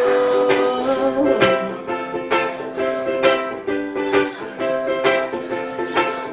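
Acoustic plucked string instrument playing the instrumental break of a folk song, with strums landing about once a second over held notes.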